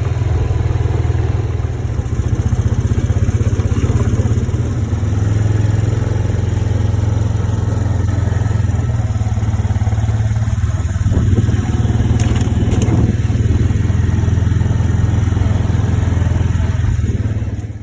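Hurricane wind buffeting the microphone: a loud, steady low rumble with rapid flutter, the gusts swelling and easing without a break.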